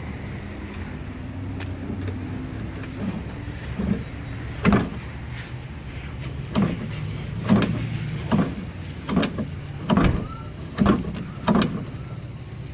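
Lifted Dodge pickup's engine idling, heard from inside the cab, with a run of sharp clicks or knocks about once a second in the second half.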